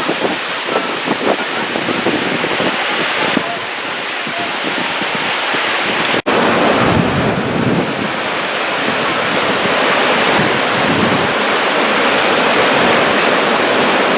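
Rushing, splashing water of the Yellowstone River around a raft, with wind buffeting the microphone. The sound drops out for an instant about six seconds in.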